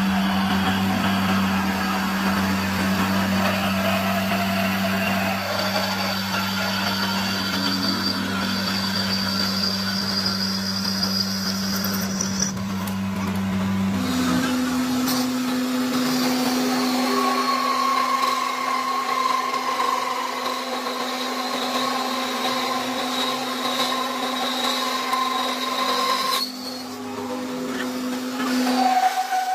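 Electric workshop machinery running with a steady hum. About halfway through, the hum steps slightly higher and the deeper part drops away.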